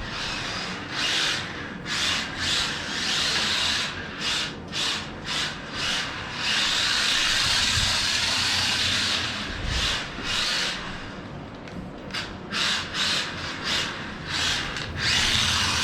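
Jaibaile 1:43 scale 4WD mini RC drift car running on a hardwood floor, its tyres hissing and scrubbing as it accelerates and slides, in many short bursts with one longer unbroken run of a few seconds in the middle.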